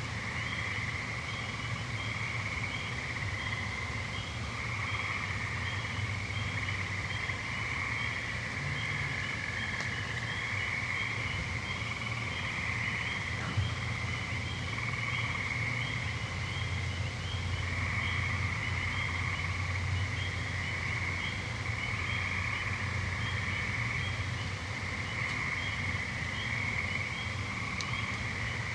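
An evening chorus of trilling frogs and toads: overlapping trills that swell and fade every second or two, with a faint, evenly repeating chirp above them and a steady low drone beneath.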